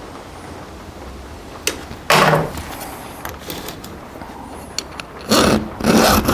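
Round chainsaw file rasped by hand across a saw-chain cutter tooth: one stroke about two seconds in, then two quick strokes near the end. The file is catching and grabbing on the tooth, which the filer puts down either to a chain never sharpened before or to a tooth top turned down by a hit.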